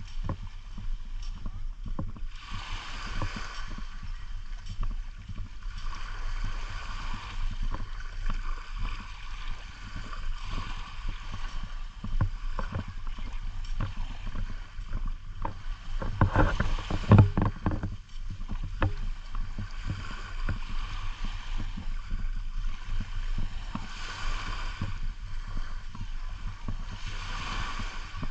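Small waves washing up on the beach, a hiss that swells and falls back every few seconds, with wind buffeting the microphone, strongest about halfway through.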